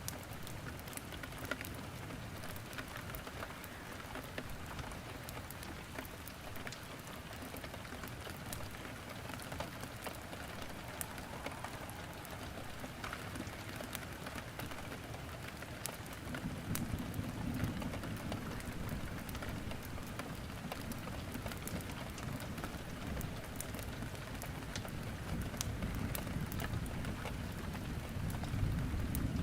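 Steady rain pattering on a surface, mixed with the sharp crackle and pop of burning wood in a fireplace. About halfway through, a low rumble swells up and grows again near the end.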